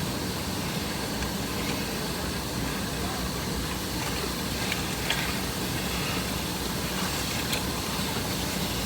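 Car engine running with a steady hum and even road or cabin noise, and a couple of faint ticks.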